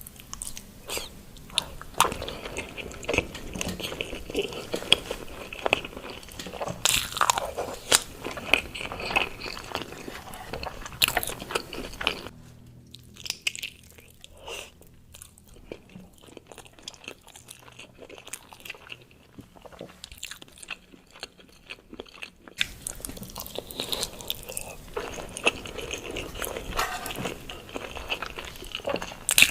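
Close-miked ASMR eating: biting and chewing balado eggs, with sharp crunchy bites and wet mouth clicks. The eating goes quieter for about ten seconds in the middle, then picks up again.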